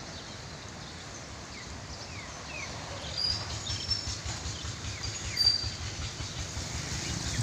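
Gusty storm wind buffeting the microphone, a low fluttering rumble that picks up about three seconds in. Birds chirp a few short calls over it.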